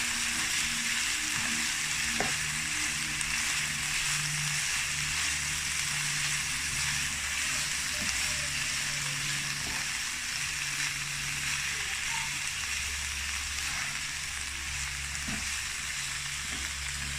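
Chicken pieces sizzling in a little hot oil in a pot, a steady frying hiss, with occasional light knocks of stirring. A low hum comes and goes underneath.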